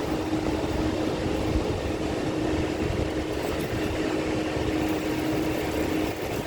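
Steady drone of construction machinery running, a constant rumbling noise with a steady hum through it.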